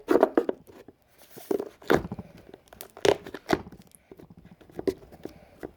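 Fluffy rubber slime being squeezed and stretched by hand, giving irregular pops and crackles.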